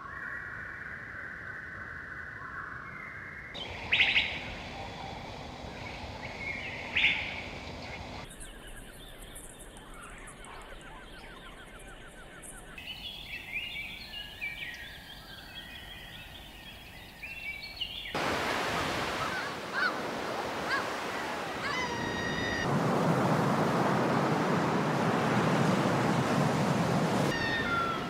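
Bird calls and chirps from several different outdoor recordings, cut one after another every few seconds, with two short loud calls about four and seven seconds in. In the last third a loud steady rushing noise runs under repeated chirping calls.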